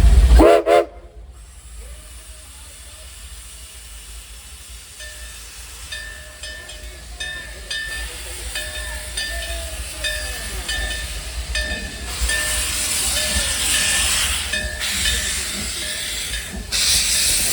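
Steam locomotive at a standstill letting off steam: a loud hiss of about two seconds near the middle and another near the end, with a faint steady series of repeating high pulses underneath.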